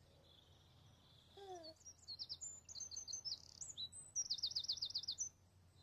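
Songbirds chirping in a series of quick high notes, ending in a fast trill of downward-sweeping notes, about eight a second, that stops about half a second before the end.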